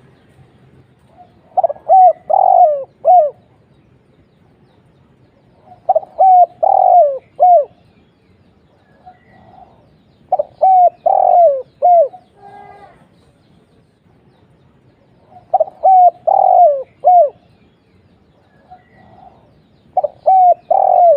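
Spotted dove (tekukur) singing: a short phrase of three to four coos, repeated five times about every four and a half seconds.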